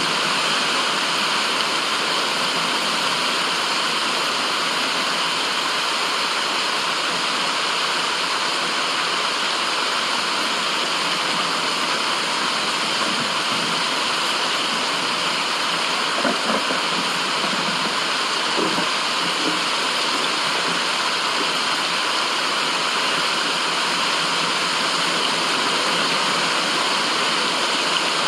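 Steady rushing of flowing water, even and unbroken, with a couple of faint brief sounds about halfway through.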